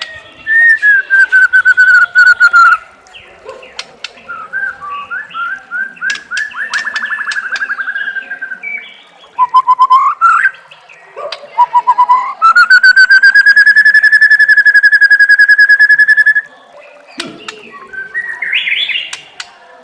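White-rumped shama (murai batu) singing a varied song: clear gliding whistles, quick repeated note runs and sharp clicks. About halfway through comes one long, fast rattling trill lasting about four seconds.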